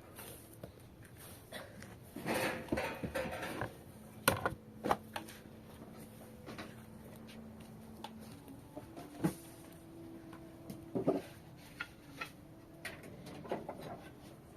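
Scattered knocks, clicks and clatter of objects being handled, with a faint steady hum for a few seconds in the middle.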